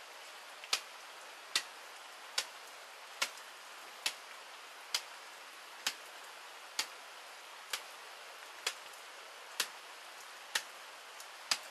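Steady rain hiss with a sharp tap about once a second, evenly spaced.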